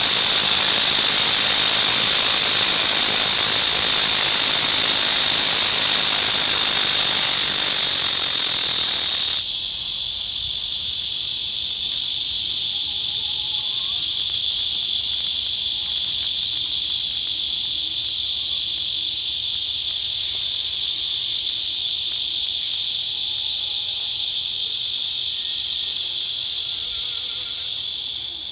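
Cicadas singing in a continuous high, loud buzz. About nine seconds in the sound drops suddenly to a quieter, thinner buzz that keeps going steadily.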